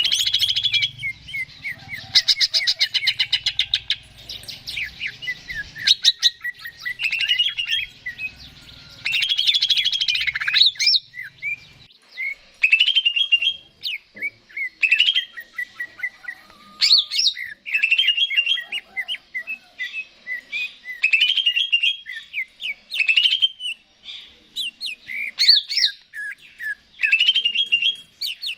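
Greater green leafbird (cucak ijo) singing a long, varied song of quick chirps, rattling trills and whistled phrases in rapid succession, the energetic full-volume song prized as 'gacor'.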